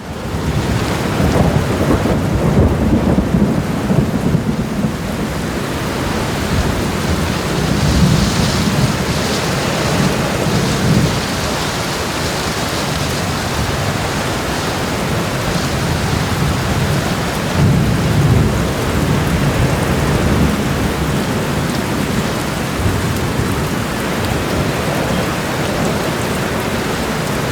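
Steady rain with thunder rumbling low several times, swelling and fading.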